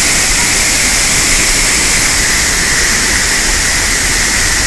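Loud, steady rush of a large waterfall crashing down close by.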